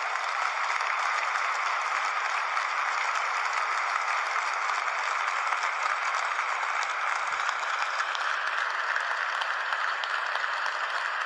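Large crowd applauding, a dense steady clapping that swells up at the start and holds throughout.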